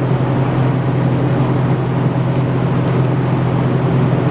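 Steady low mechanical drone of a running motor, holding an even pitch.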